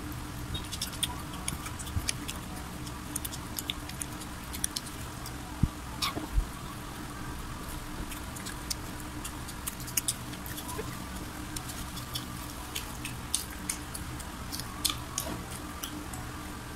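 Close-miked chewing of fried chicken: many small, irregular crackling clicks from the crispy breading and the mouth, over a steady low hum.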